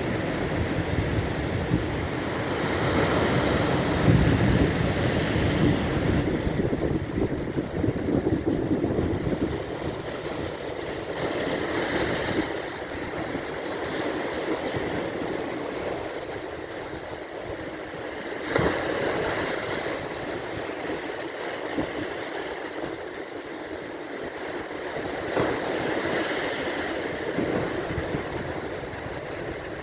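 Baltic Sea waves washing onto the shore, the surf swelling and easing every several seconds. Wind buffets the microphone with a low rumble during the first ten seconds or so, then eases.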